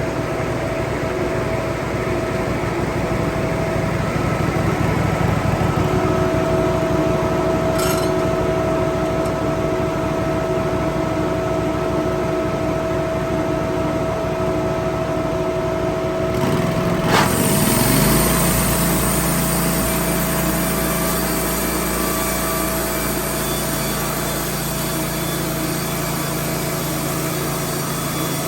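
Wood-Mizer LT15 portable band sawmill running steadily while milling boards. About 17 seconds in there is a click and the machine's low note shifts and settles lower.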